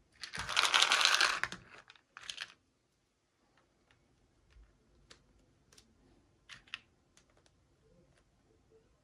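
Packaging being handled in an unboxing: a loud crinkling rustle lasting under two seconds, a shorter rustle just after, then a scattering of small sharp clicks and taps as small plastic pieces are handled.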